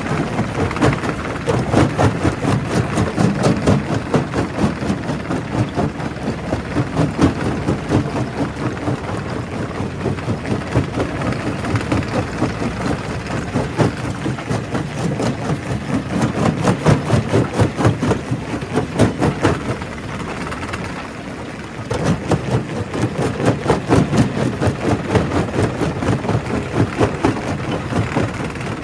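Primary rock crusher at work: a steady machine drone with a dense, rapid clatter of rock being broken. It eases briefly about twenty seconds in, then picks up again.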